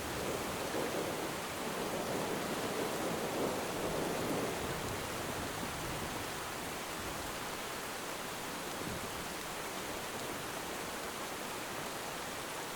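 Steady rainfall, an even hiss with no distinct drops or breaks.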